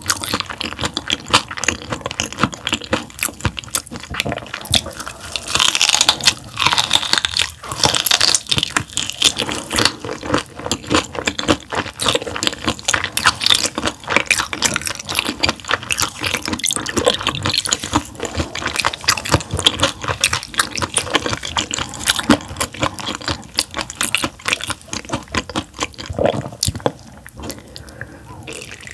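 Close-miked chewing of raw gizzard shad sashimi: a dense run of crunching and wet, clicking mouth sounds.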